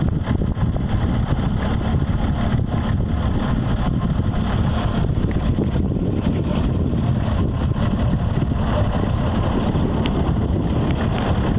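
Nissan Patrol's 4.2-litre straight-six turbo-diesel engine running steadily at low pitch as the 4x4 climbs a rocky test track.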